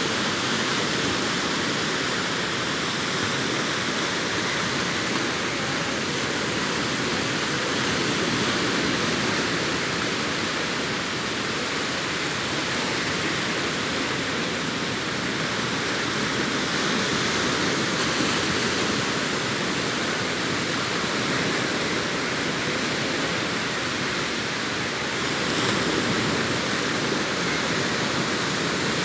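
Sea waves breaking on a beach: a steady surf roar that swells slightly a few times as waves come in.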